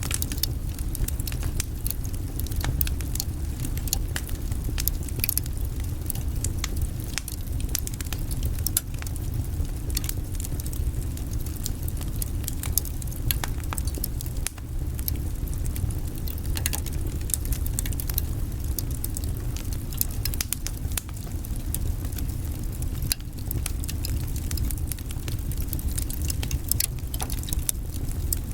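Wood fire burning in a fireplace: a steady low rumble of the flames with many quick, sharp crackles and pops scattered throughout.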